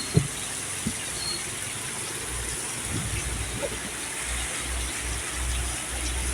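Heavy rain falling with a steady hiss, with a low rumble from about two seconds in.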